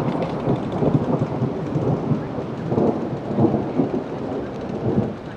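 Thunder rumbling on and off through falling rain, swelling around the middle and again near the end.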